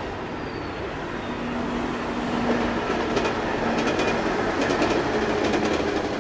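COASTER commuter train of bilevel coaches rolling past as a steady rumble that grows louder, with the wheels clicking over rail joints in clusters from about halfway through.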